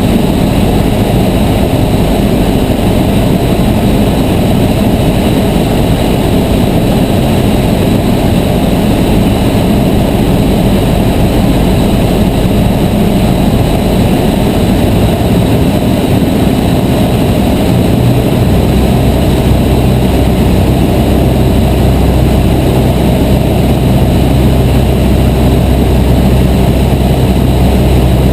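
Cessna 152's four-cylinder Lycoming piston engine and propeller running in flight with a loud, steady drone. About eighteen seconds in, its low note becomes stronger and more even.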